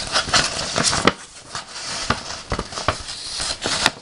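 Close-miked paper handling: an envelope and letter paper rustling and crinkling, with many sharp clicks and taps.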